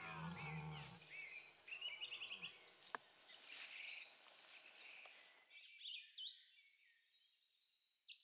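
Small birds chirping and twittering in short repeated calls, faint. A low-pitched call carries over and fades out in the first second, and a brief hiss rises and falls in the middle.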